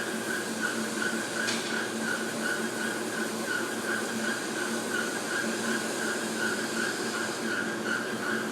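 Hot air rework station blowing on a circuit board to reflow the solder on a chip: a steady hiss of air with a high whine running through it.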